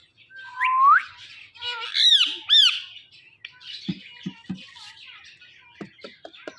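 Ring-necked parrot whistling one rising note, then giving two harsh arched squawks about two seconds in, followed by softer chattering mixed with a series of short low clicks.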